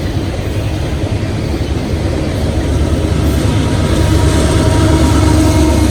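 Freight train running by: a heavy, steady low rumble that grows louder, with faint steady tones coming in about halfway through.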